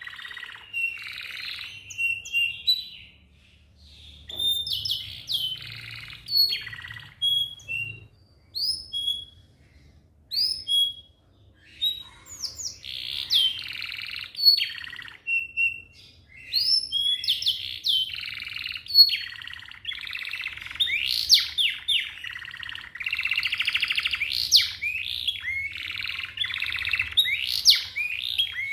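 Domestic canary singing. At first it gives scattered whistled notes and quick pitch glides, then partway through it breaks into a dense, continuous song of rapid trills and rolls.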